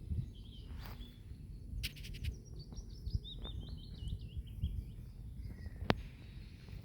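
A songbird chirping in a quick run of short notes through the middle, over a low rumble, with a cluster of sharp clicks about two seconds in and one sharp click near the end.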